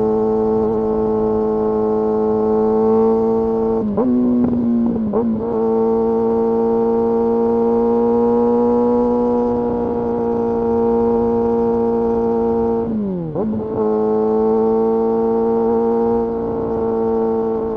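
Kawasaki Ninja ZX-6R inline-four engine and exhaust running under way at steady revs, with two brief dips in revs about four and thirteen seconds in before the pitch settles back.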